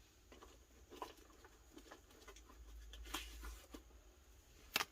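Faint scattered taps and light rustles of small paper cut-outs being handled on a craft desk, with a sharper click near the end.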